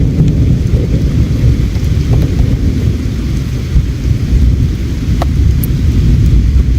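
Steady low rumble of flowing river water, with a few faint sharp pops from a crackling campfire about five seconds in.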